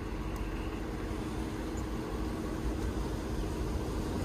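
Steady hum of an idling vehicle engine: a constant low drone with rumble underneath.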